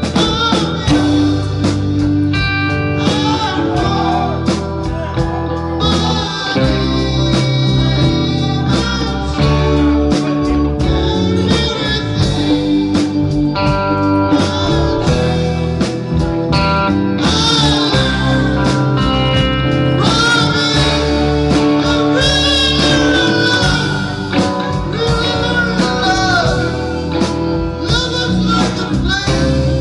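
A band playing an instrumental passage of a slow blues-rock ballad, with guitar over bass and drums. A lead line bends and wavers in pitch.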